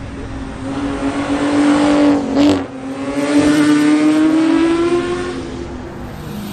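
A car engine accelerating hard, its pitch rising, with a short break and click about two and a half seconds in before it pulls up again, then fading near the end.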